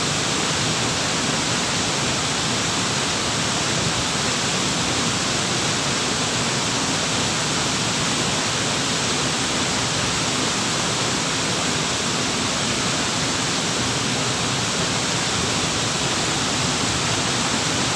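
Waterfall: water falling and flowing in a steady, even rush that does not change.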